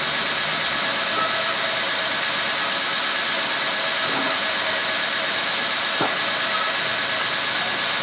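Woodworking machine running steadily: a loud, even, high hiss with faint steady tones under it and no change in pitch or load.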